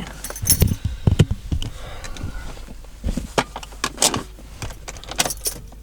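Scattered clicks and light knocks from someone handling things inside a car cabin, with the engine not yet running.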